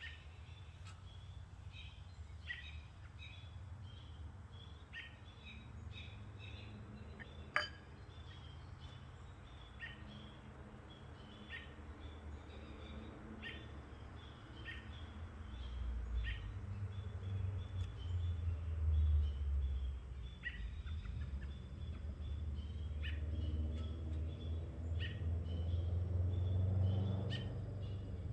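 Small birds chirping outdoors in short, repeated calls about every second. A low rumble swells in about halfway through and grows louder toward the end, with a single sharp click about a quarter of the way in.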